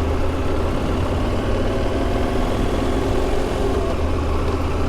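Motorcycle engine running steadily, heard through the rider's in-helmet microphone.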